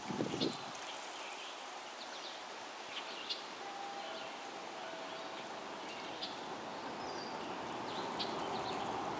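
Woodland outdoor ambience: a steady background hiss with scattered short bird chirps, and a brief low rumble at the very start.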